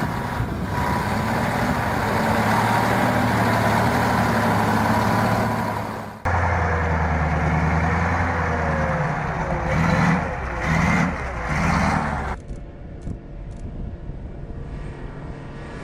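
Heavy vehicle engines running, heard in three separate clips cut together. In the middle clip the engine swells and eases three times in quick succession.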